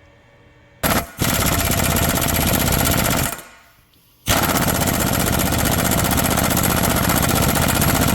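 Impact wrench hammering on a stuck crankshaft pulley bolt of a Vauxhall Z32SE V6: a short burst about a second in, a longer run, a stop of about a second near the middle, then it hammers on again.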